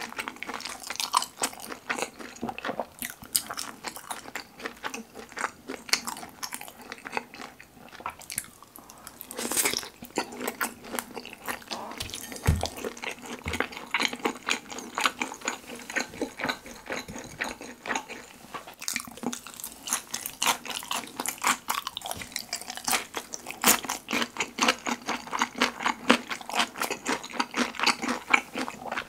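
Close-miked chewing and biting of sweet-and-sour pork topped with kimchi and melted cheese: a dense, quick run of wet, sticky mouth clicks and smacks. A brief low thud comes about twelve seconds in.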